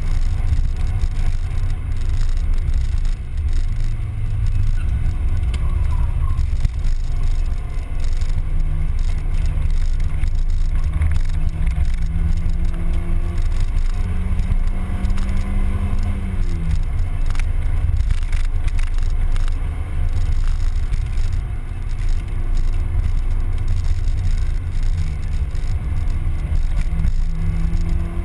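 Mazda Miata's four-cylinder engine running while driving, its note rising and falling with engine speed over a heavy low rumble. The engine note climbs for a while, then drops sharply about sixteen seconds in, and later builds again.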